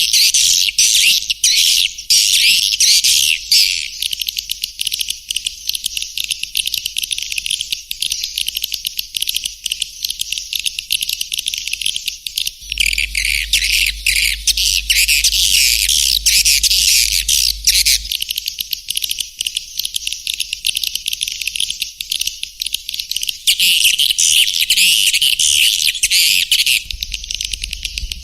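Swiftlet lure call recording: dense, continuous high twittering chirps of swiftlets, the sound played to draw swiftlets into a nesting house. A faint low hum sits underneath from about halfway in until roughly two-thirds through.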